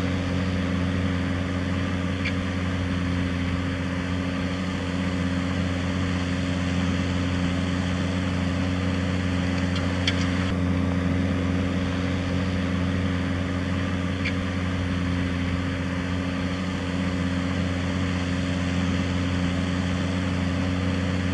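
Tractor engine running steadily with an even low drone, and a few faint ticks along the way.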